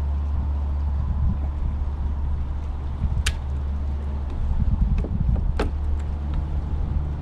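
Steady low rumble of wind and water around a fishing kayak, with two sharp clicks, one about three seconds in and another about five and a half seconds in.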